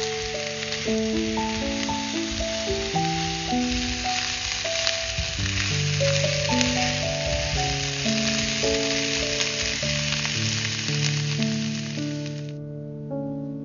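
Cauliflower florets and chopped spring onion sizzling as they fry in a nonstick frying pan, stirred with a spatula at first. The crackling sizzle cuts off suddenly near the end.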